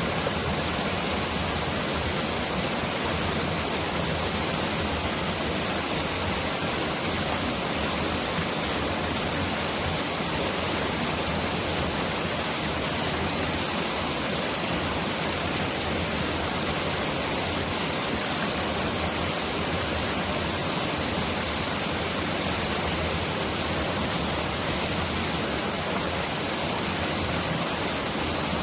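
Mountain valley stream rushing steadily, a dense, even wash of water noise that sounds like heavy rain pouring down.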